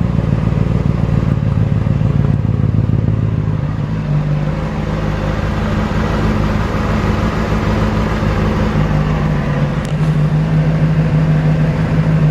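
Honda CBR600RR's inline-four engine running through a Moriwaki aftermarket exhaust at a steady idle. Its speed steps up a little about four seconds in and settles back down near ten seconds.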